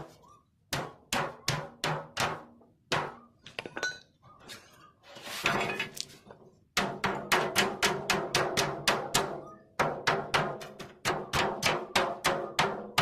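Hammer blows on metal, each with a ringing note: spaced and irregular at first, then a steady run of about three strikes a second from about halfway. A short rasping scrape comes just before the steady run.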